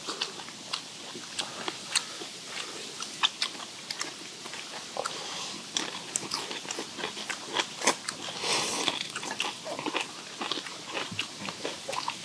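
Close-up eating sounds: several people chewing and crunching steamed skate and bean sprouts, with many sharp, irregular wet clicks and smacks, and a longer slurping noise about eight seconds in.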